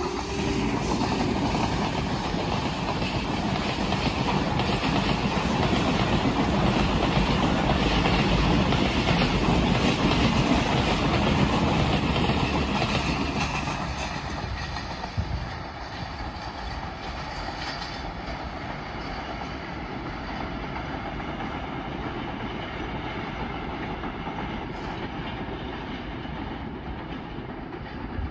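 Passenger train (the Hazara Express) running past on a curve, its coach wheels clattering over the rail joints. About fourteen seconds in the sound begins to fade as the train draws away, with a single knock shortly after; a quieter distant rumble remains to the end.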